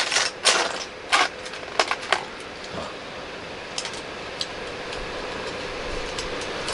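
Small plastic LEGO pieces clicking and rattling as they are sorted through, a quick run of sharp clicks in the first couple of seconds, then only a few scattered clicks. Underneath is the steady hiss of an electric fan running.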